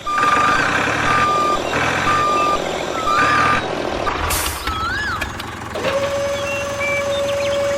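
Electronic reversing beeps, about one a second, over a steady noisy running sound; from about six seconds in a single steady lower tone holds.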